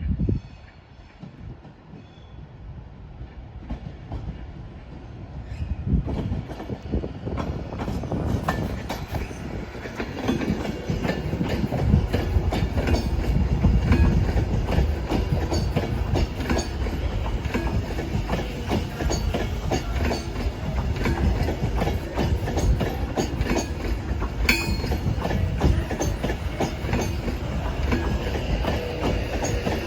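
A train running past, its wheels clattering over rail joints and pointwork. It grows louder from about six seconds in and stays loud through the rest.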